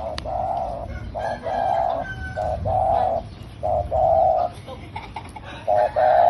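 Spotted dove cooing. It repeats a short note followed by a longer, held note, about five times.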